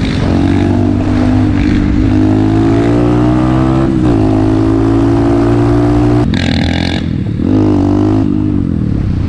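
Motorcycle engine running under way, its pitch climbing as it accelerates, dipping briefly about four seconds in as it shifts gear, then holding steady. About six seconds in the engine note breaks into a short noisy rush before it climbs again.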